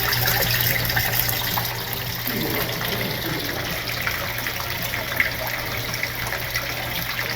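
Water pouring and gushing steadily into a large display aquarium, the tank's circulation running, with a low steady hum under it.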